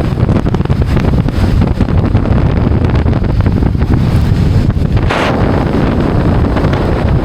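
Heavy wind buffeting the microphone on a boat at sea, a loud, steady low rumble with no voices, and a short louder rush of noise about five seconds in.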